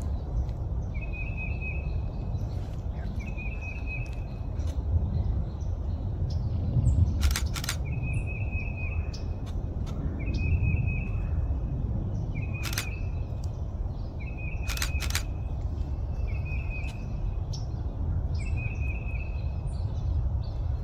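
A woodpecker giving a short rattling call over and over, about once every two seconds. A few sharp clicks of a DSLR camera shutter cut in, twice as quick pairs, over a steady low rumble.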